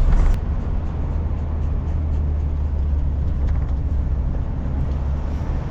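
Car cabin noise while driving: a steady low engine and road rumble heard from inside the car.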